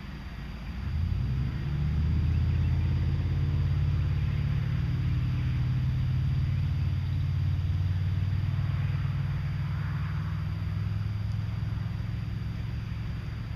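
A motor vehicle's engine running, a steady low rumble that comes up about a second in and eases off near the end.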